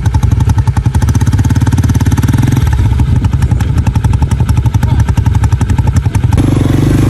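ATV engine running while riding, a fast, even throb with a rattle. Near the end it changes abruptly to a steadier hum.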